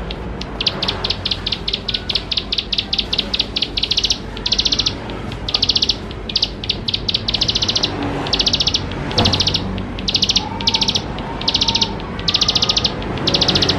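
Ciblek sawah (plain prinia) singing: first a fast run of short, high notes, then a series of buzzy trilled phrases about half a second long, repeated roughly once a second.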